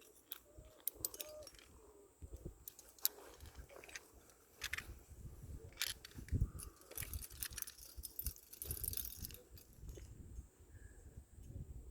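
Metal climbing gear, carabiners and quickdraws on a harness, clinking irregularly as a climber moves up a rock slab, with scattered clicks and low knocks and rubbing from the climber's movement.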